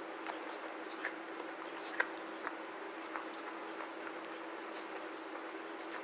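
Soft crunches and clicks of black slate being chewed close to the microphone, a few scattered bites over a steady hiss and faint hum.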